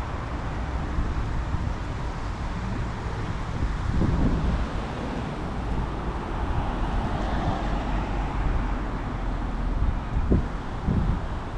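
Wind rumbling on the microphone of a moving mountain bike, with road traffic noise; a vehicle sound swells and fades near the middle.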